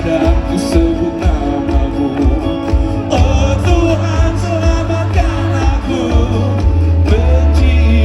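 Live band music with singing and strong bass, recorded at a concert.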